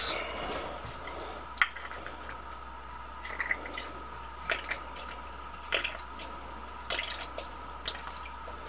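Alcohol fuel dripping into an open-well alcohol stove as it is filled: scattered small drips and light taps, about eight in all.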